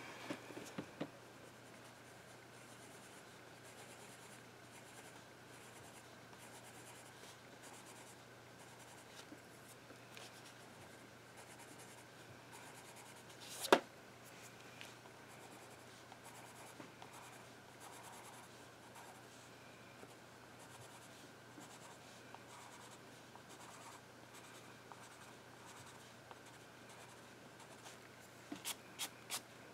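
Faint scratching of a pencil on paper, over a steady low hum. One sharp tap about halfway through and a few lighter taps near the end.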